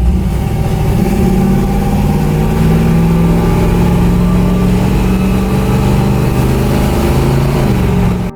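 Car engine running loud and steady, its pitch rising about a second in and then holding.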